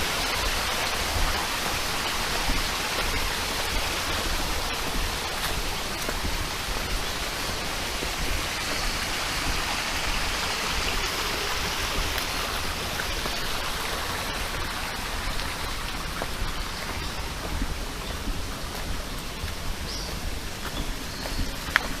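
Steady rush of a small valley stream flowing.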